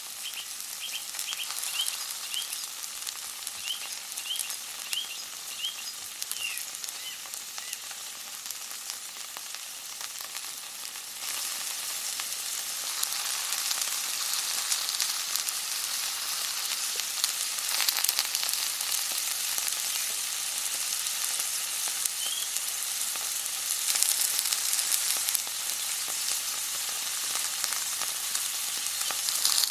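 Food frying in hot oil in a pan: a steady sizzle with dense crackling, getting louder about eleven seconds in.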